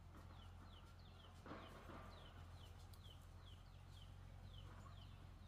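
Faint, short falling chirps from a bird, repeated about twice a second, over a low steady hum, with a brief rustle about a second and a half in.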